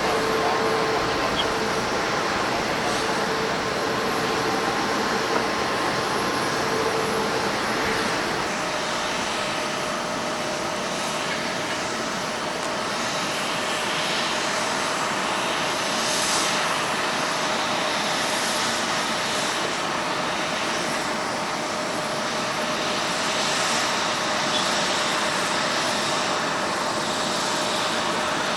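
Jet airliner engines running, a steady rushing noise with a faint whine that steps up in pitch about eight seconds in.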